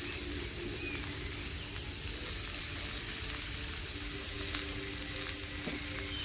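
Sauce ingredients frying in oil in a pan over a campfire, with a steady sizzle as they sauté.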